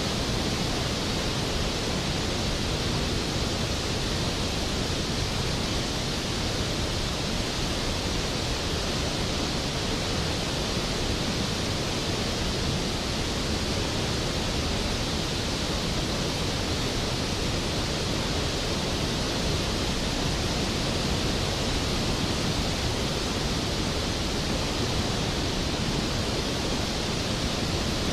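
Skógafoss waterfall: a large volume of water falling and crashing into its plunge pool, making a steady, unbroken rush of noise that fills the low to high range evenly.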